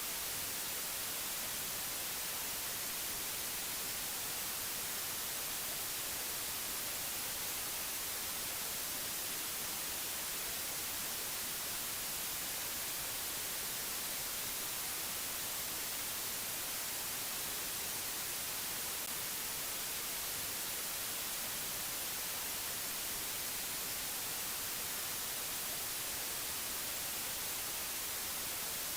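Steady, unchanging hiss of white noise or static, brighter in the high pitches, with no tones or separate sounds in it.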